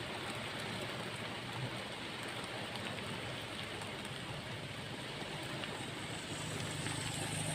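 Steady hiss of rain falling. About six seconds in, a low steady engine drone joins it.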